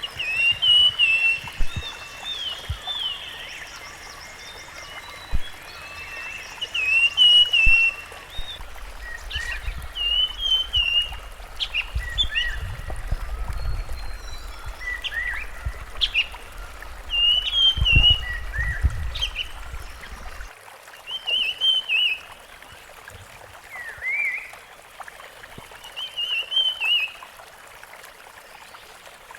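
Rusty-fronted barwing calling: short warbling, chirpy phrases repeated every second or two. A low rumble sits underneath for a stretch and cuts off suddenly about two-thirds of the way through.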